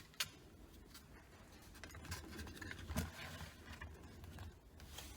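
Faint handling noises: a few light clicks and some rustling, such as LEGO plastic pieces being moved on a table.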